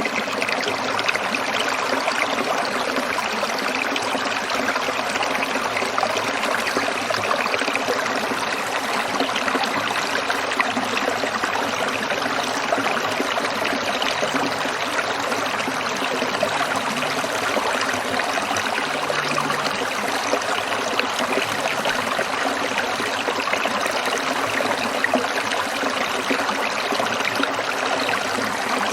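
Stream water trickling and splashing over stones, a steady dense babble.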